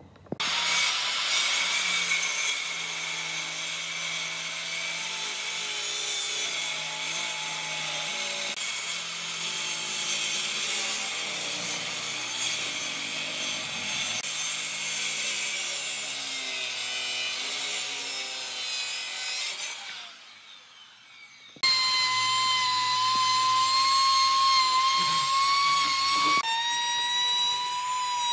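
A power tool working wood: a motor whine over a rough, steady grinding noise. It stops for about a second and a half near the two-thirds mark, then starts again with a stronger, clearer whine.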